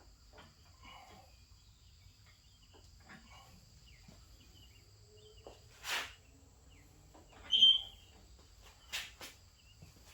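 A few scattered knocks and clicks of metal tools and parts being handled, the loudest with a short squeak, over a faint steady high-pitched tone.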